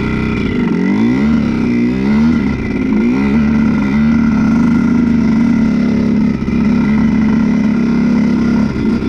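Honda CR125 two-stroke dirt bike engine revving up and down several times, then held at steady high revs for about five seconds before dropping off near the end.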